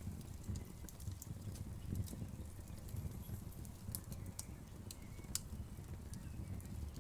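Wood fire crackling: a low, steady rumble of flames with scattered sharp pops and snaps, the loudest about four and five and a half seconds in.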